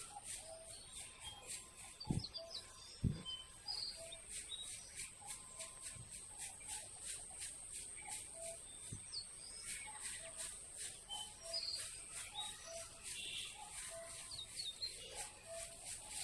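Faint outdoor ambience: birds chirping over a steady, high, ticking insect-like buzz. Two low thumps come about two and three seconds in.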